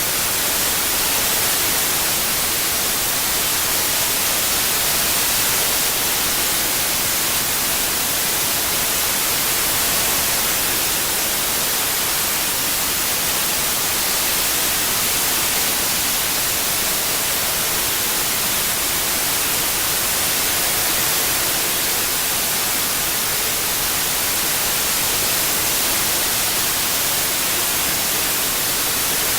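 Steady synthetic white noise, an even hiss weighted toward the high end, used as a masking sound for tinnitus.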